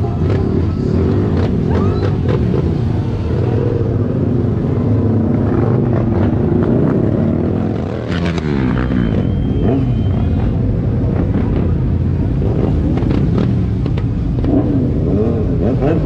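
Several motorcycle engines running and revving as bikes pass, their pitch rising and falling and overlapping.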